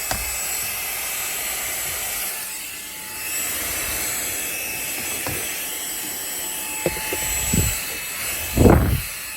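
Xiaomi Mi Vacuum Cleaner mini, a cordless handheld vacuum, running steadily with a high whine as its nozzle rubs over surfaces. Near the end come a few knocks and a louder scrape as the attachment bumps against the car interior.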